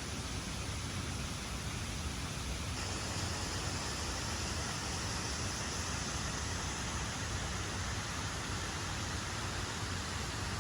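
Steady rushing of water from a waterfall, an even noise with no breaks, its higher hiss a little brighter from about three seconds in.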